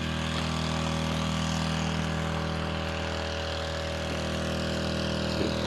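A small engine running steadily at an even pitch, without revving.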